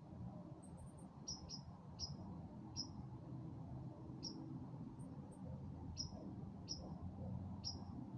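A small bird giving sharp, short chip calls, about eight at uneven intervals, with a few fainter high ticks between them. A steady low rumble runs underneath.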